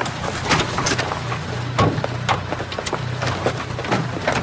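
A car engine running with a steady low hum, with scattered sharp clicks and knocks over it.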